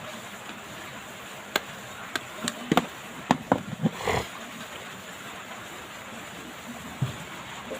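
Small sharp clicks and taps from handling a smartphone and tools during disassembly. There is a quick cluster of them a couple of seconds in, then one more click near the end, over a faint steady hiss.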